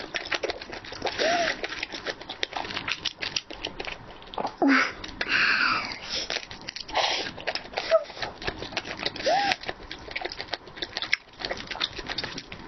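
A person biting and chewing spicy steamed swordtip squid: a dense run of wet clicks and mouth smacks, with a few short hums between bites.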